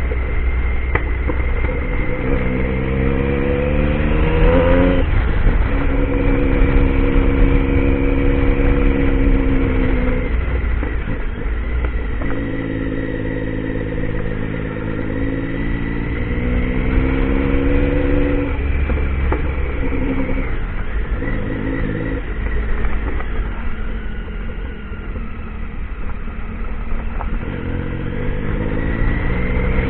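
Motorcycle engine under way off-road, its pitch repeatedly climbing under throttle and dropping back at gear changes or throttle lifts, over a steady low wind rumble.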